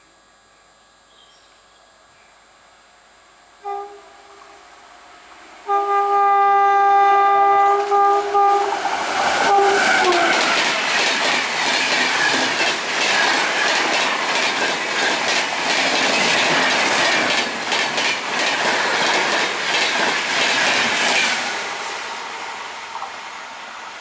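A fast Indian Railways passenger train approaches and passes. Its horn gives a short toot, then a long blast whose pitch drops as the train goes by. The wheels then clatter over the rail joints in a rapid clickety-clack for about twelve seconds, fading near the end.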